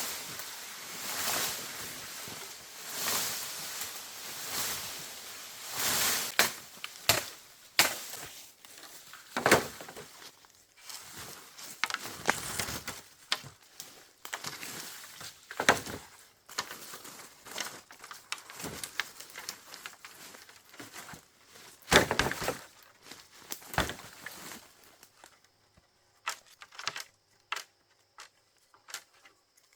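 Irregular chopping and knocking strokes with crinkling, rustling handling noise between them. It thins out to a few light clicks near the end.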